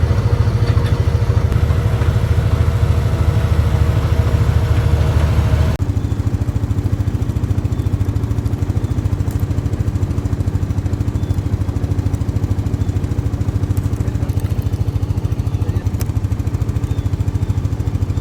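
A motor engine running steadily at low speed with an even firing beat. About six seconds in it eases off to a quieter, lower run.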